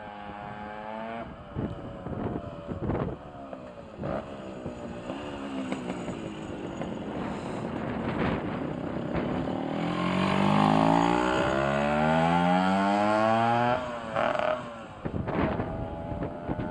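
Yamaha FS1E 49cc single-cylinder two-stroke moped engine being ridden. Its note falls at first, then the revs climb steadily and get louder for several seconds before dropping off sharply about fourteen seconds in.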